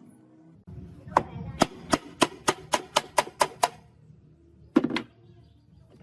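Hammer blows on metal: a quick run of about ten ringing strikes, some four a second, then a pause and a close double strike near the end.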